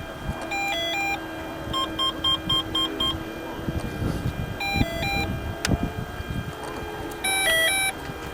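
Electronic arming beeps from the RC model aircraft's motor speed controller: short stepped tone sequences about a second in, near the middle and, loudest, near the end, with a run of six quick even beeps about two seconds in, as the electric motor is powered up before a run.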